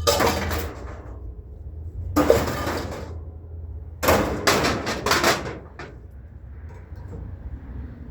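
Scrap metal pieces being thrown onto a loaded truck bed, clanging and clattering against the pile three times, over a steady low hum.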